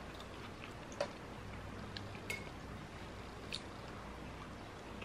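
Faint chewing of a mouthful of fried rice, with a few soft, sharp mouth clicks here and there.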